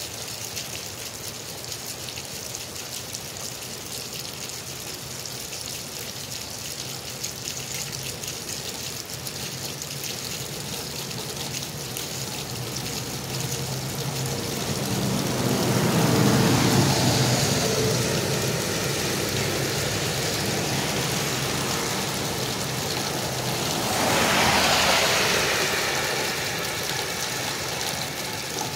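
Steady heavy rain hissing, with a stream of runoff water pouring from a drain outlet onto the flooded pavement. Just past halfway, a vehicle swells up and passes on the wet road, and a second, shorter swish of tyres on wet pavement follows near the end.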